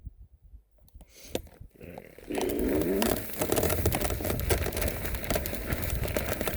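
Quiet at first with a few faint clicks. About two seconds in, the electric bike sets off over rough ground: tyres crunching over dirt and brush, a clattering rattle, and a low rumble of wind on the phone's microphone.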